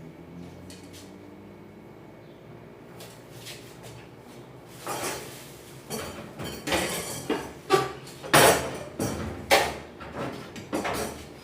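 Metal stove parts knocking and clattering as they are handled and fitted while the stove's tray is put together: a run of sharp knocks and clanks starting about five seconds in, the loudest around the middle.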